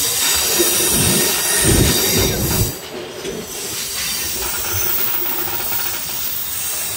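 MEMU electric train running on the rails, its steel wheels squealing, with a few heavy low thuds in the first three seconds, then a steadier rumble.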